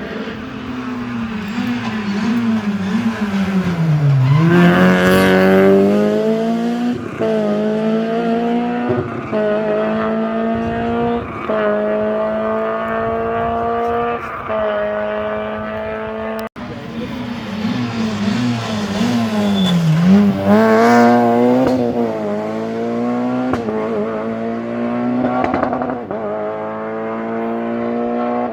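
Two rally car runs, one after the other. Each engine note drops as the car slows into a corner. It then climbs hard through several upshifts, each one a short break followed by a step down in pitch before it rises again.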